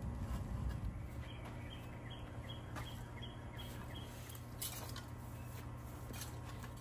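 A small bird chirping a regular series of short high notes, about three a second, for about three seconds, over a steady low background hum. A few soft rustles from gloved hands working soil and plant stems in a plastic basket planter come and go, the clearest past the middle.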